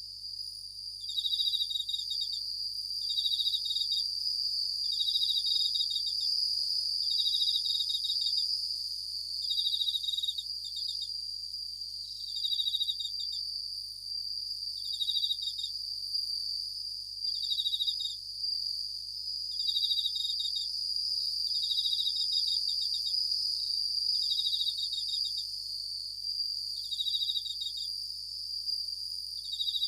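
Japanese bell crickets (suzumushi) singing: ringing, finely pulsed trills about a second long, repeated roughly every two seconds over a steady high-pitched drone.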